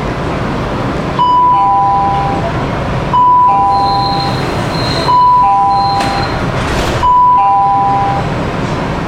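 Metro train's door-closing warning chime: four high-low two-note dings about two seconds apart, over a steady background hum.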